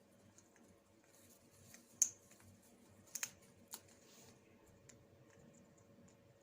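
A few sharp, faint clicks and crackles, the loudest about two seconds in and a close pair just after three seconds: an African grey parrot's beak working at neem leaves.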